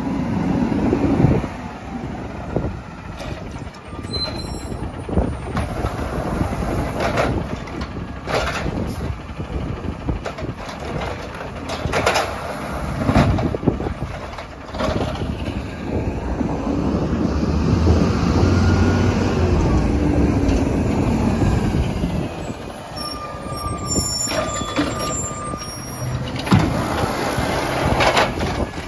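Peterbilt 320 garbage truck running, its engine swelling and falling back, with sharp hisses and knocks at intervals.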